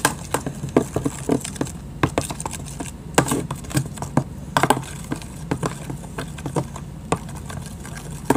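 A spoon stirring glue and food colouring in a mixing container, with irregular clicks and taps as it knocks against the sides. A steady low hum runs underneath.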